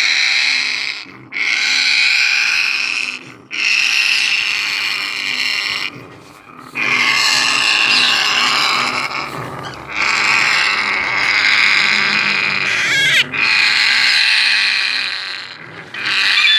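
African grey parrots making harsh, raspy calls in long stretches of two to three seconds each, broken by short pauses.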